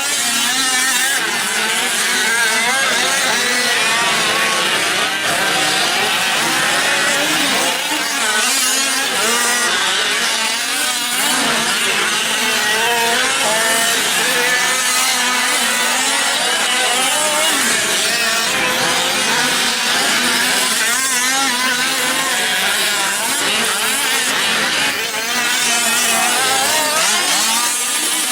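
A pack of gas-powered 1/5-scale RC trucks racing, their small two-stroke engines revving up and falling back as they run through the corners, several pitches overlapping at once.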